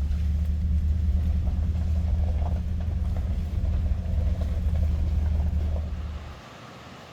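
Truck driving, a steady low rumble of engine and road noise that stops abruptly about six seconds in.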